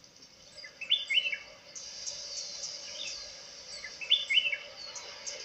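Wild birds calling in a forest: quick falling chirps about a second in and again around four seconds in, with many short high chirps and a steady high hiss in the background.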